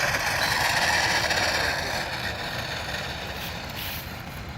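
Radio-controlled Airbus A380 model's electric motors running just after touchdown: a steady rushing noise that gradually fades.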